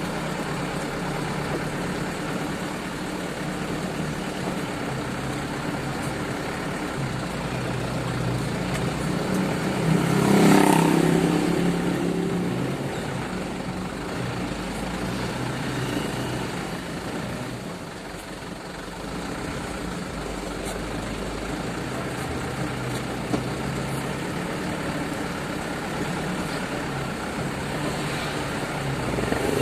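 Truck engine running steadily, swelling to its loudest about ten seconds in and then settling back, with another brief rise near the end.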